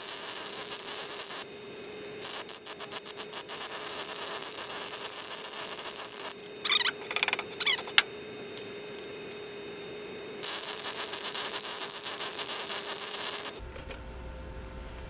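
Small wire-feed welder arc sizzling and sputtering in three short runs of welding, the middle one stuttering rapidly. Between runs there are brief high chirps and a sharp click.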